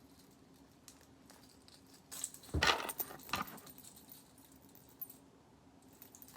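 Metal jewelry jingling and clinking as it is handled and put on, with one burst of jangling about two to three and a half seconds in and light clicks around it.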